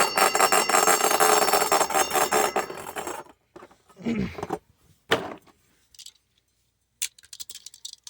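Two 3D-printed Beyblade spinning tops clashing and grinding in a stadium with rapid, rattling hits for about three seconds, then stopping abruptly. Scattered clicks and knocks follow as the tops are handled.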